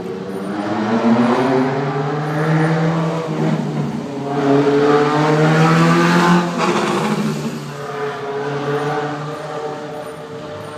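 Old racing cars' engines revving and accelerating past, pitch rising and falling, loudest as one goes by about six seconds in.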